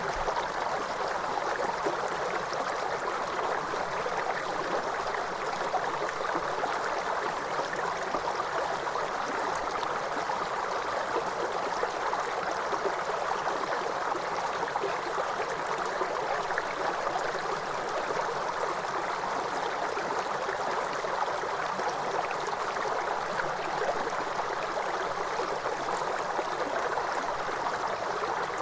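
Steady rushing of falling water from a waterfall or fast stream, an even, unbroken wash of sound.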